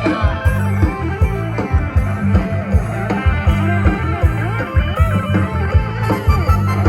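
Loud band music from a Thai procession band: a lead electric guitar playing sliding, bending melodic lines over heavy bass and a steady drum beat.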